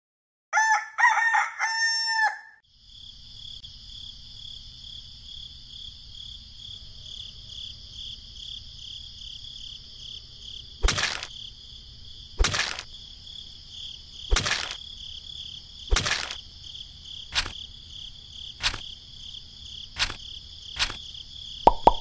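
A rooster crows once, loudly, about half a second in. A steady high chirring background follows, and from about 11 s there are eight sharp pops, about one every one and a half seconds, as small toy pineapples are pressed one by one into sand.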